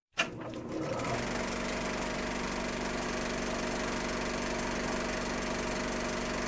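A machine running steadily with a constant hum of several held tones, starting abruptly just after the beginning.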